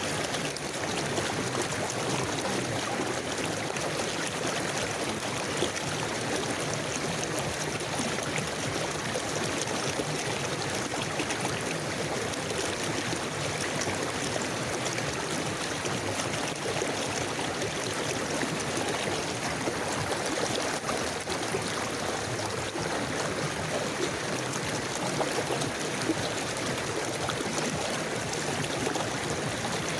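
A river flowing over rocks, a steady rush and babble of water without pause.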